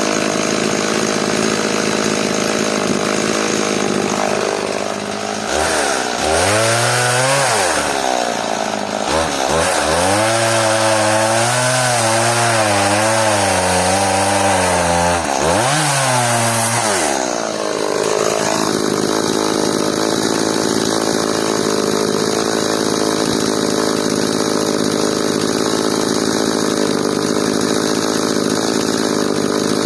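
Stihl MS180 two-stroke chainsaw cutting hard elm. It runs at steady high revs, then from about five seconds in the engine pitch drops and wavers as the saw bogs under load in the cut, with brief sweeps up and down. Near the end it returns to a steady high note.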